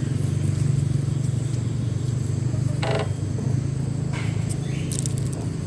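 Small motorbike engine running steadily under way, a low, even drone. About three seconds in there is a brief higher-pitched sound.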